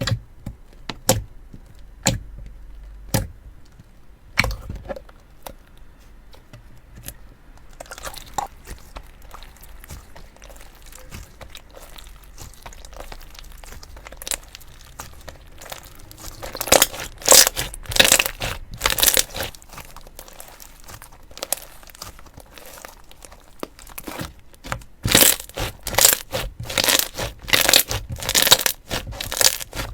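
Slime being squeezed and pressed by hand, giving a few sharp clicks at first, then two spells of dense crackling pops about halfway through and near the end.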